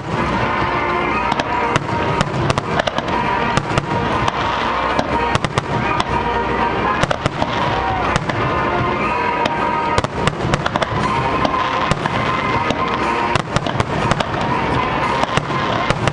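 Aerial fireworks display: shells launching and bursting in quick succession, a dense run of sharp bangs throughout.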